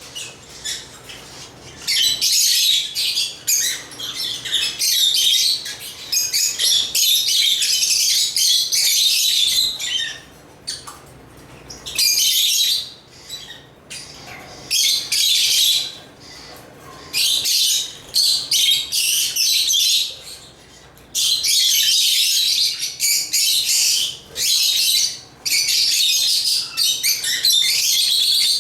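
A flock of African lovebirds (Agapornis) chirping busily in high, rapid bouts of a few seconds each, with short lulls between.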